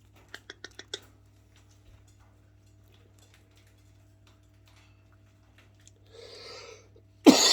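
A quick run of about six light ticks or taps early on, a soft rustle about six seconds in, then a person's sudden cough just before the end, over a steady low hum.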